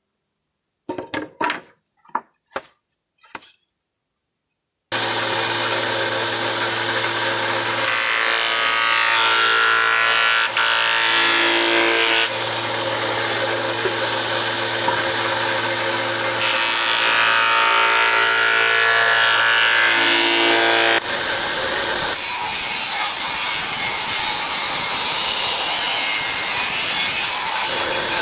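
A few light knocks of wood being handled, then an electric power tool starts about five seconds in and runs steadily while working wood, its sound brightening twice as it bites. About three-quarters of the way through the motor hum drops away and a harsher, hissing rasp of tool on wood takes over until near the end.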